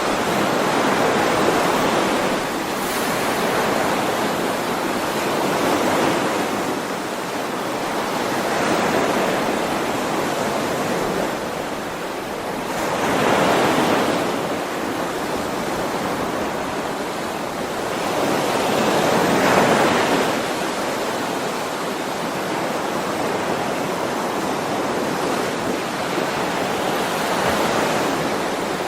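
Ocean waves washing onto the shore, a steady rush that swells and falls back every several seconds, with the biggest surges about halfway through and again a few seconds later.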